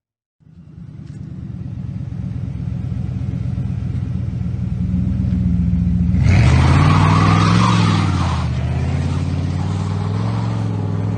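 1997 Ford F-350 V8 with the muffler removed (straight-piped), running with a loud, open exhaust note. About six seconds in it is revved, the pitch rising and falling over a couple of seconds, then it settles back to a steady run.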